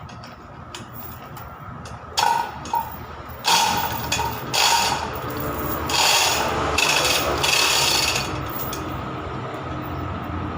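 Workshop tool noise: a series of loud bursts from about two seconds in, over a steady background hum.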